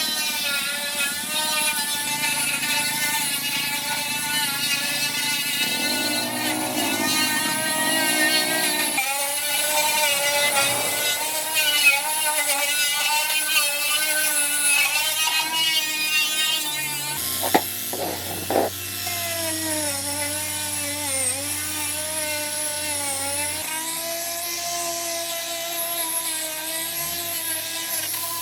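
An electric power tool's motor running steadily, its pitch wavering up and down as the load changes, with a few sharp clicks about two-thirds of the way in.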